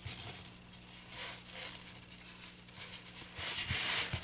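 Cotton fabric rustling and being handled while pins are pushed through it into a styrofoam board, with a sharp click about two seconds in.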